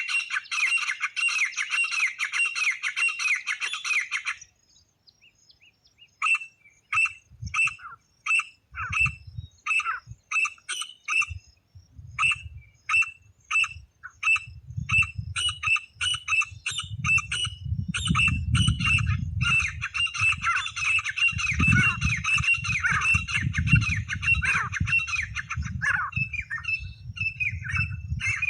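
Titar (partridge) calls, used for luring the birds: a dense run of rapid, repeated calls, a brief pause, then separate calls about two a second that build back into a dense chorus. A low rumble runs underneath the later calls.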